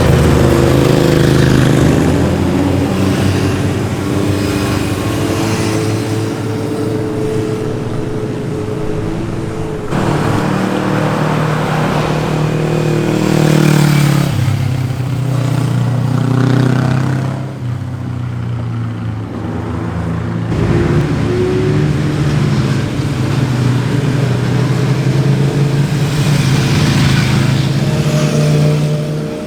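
Sport motorcycle engines revving as the bikes ride past through corners, pitch climbing and dropping with throttle and gear changes. The sound changes abruptly about ten seconds in, again near the middle and about two-thirds of the way through, as one pass gives way to the next.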